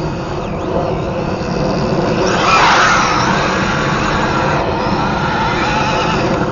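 Electric RC car's brushless motor whining as it accelerates and slows on a drive, swelling loudest about two and a half seconds in, over a steady low rumble.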